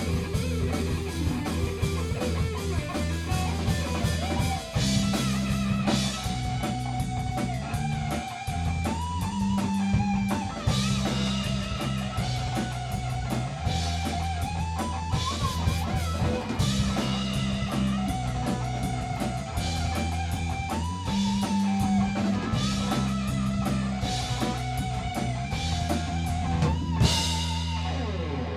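Rock band playing an instrumental passage: an electric guitar lead with bending, gliding notes over a steady bass guitar line and a drum kit beating a regular rhythm.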